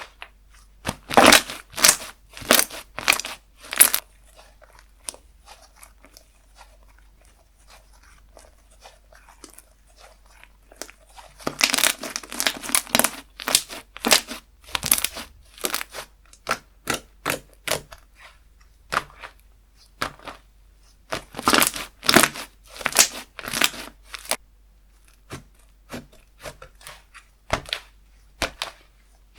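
Slime being squeezed and stretched by hand, crackling and popping with dense runs of sharp clicks in three bursts and scattered single pops between them.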